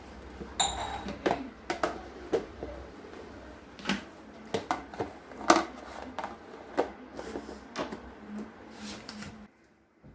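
Plastic or glass storage containers and their lids being handled: irregular clicks and knocks, about a dozen, some sharper than others, that stop suddenly near the end.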